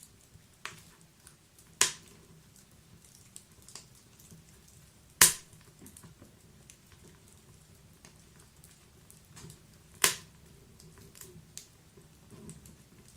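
Wood fire crackling in a fireplace: a scatter of faint small crackles with three loud sharp pops, the loudest about five seconds in.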